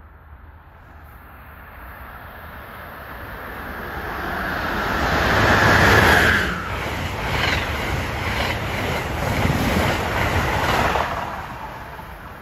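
Amtrak passenger train, led by a Siemens ACS-64 electric locomotive, passing through the station at speed. A rushing noise builds to its loudest as the locomotive goes by about six seconds in, then the cars' wheels clatter in a quick regular rhythm before the sound fades as the train recedes.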